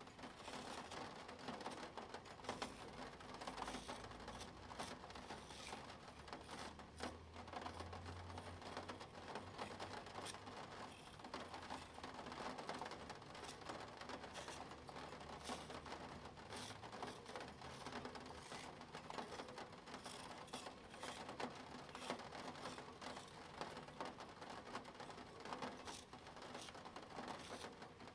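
Plastic Spirograph gear wheel worked around its toothed ring, a dense, continuous run of small ticks and scratches.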